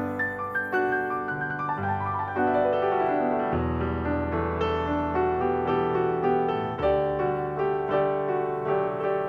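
Background piano music: a melody over sustained chords, with a falling run of notes about two to three seconds in.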